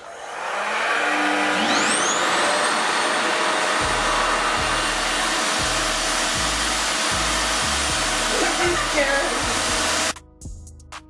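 Revair reverse hair dryer, a vacuum-style dryer that sucks the hair into its tube, switched on: a loud, steady rush of air with a high motor whine that rises as it comes up to speed. It cuts off suddenly near the end.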